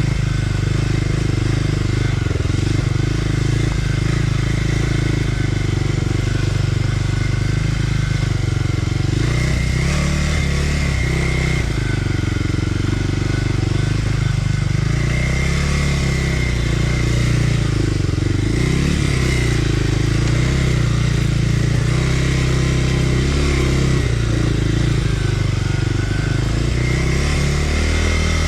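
Kawasaki KLX300R dirt bike's single-cylinder four-stroke engine running on the trail, its revs rising and falling with the throttle.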